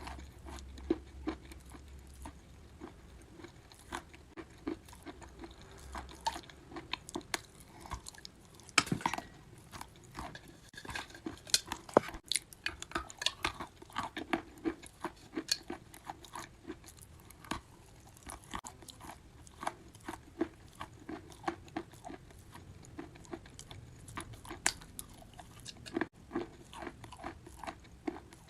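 Wet chalk being bitten and chewed: a dense, irregular run of crunches and crackles, with a few louder snaps about a third of the way in.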